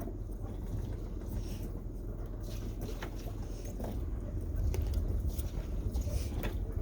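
A boat's engine running at idle as a steady low rumble that grows a little louder about two-thirds of the way through, with a few scattered knocks.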